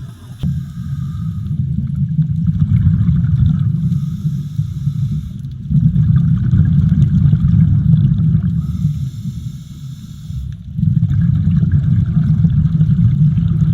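Scuba diver breathing underwater through a regulator: long, low rushes of exhaled bubbles, each several seconds, with short quieter breaks between them.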